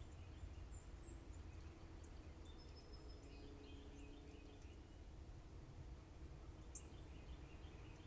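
Faint, scattered chirps and short calls of small songbirds, with one sharper chirp near the end, over a steady low background rumble.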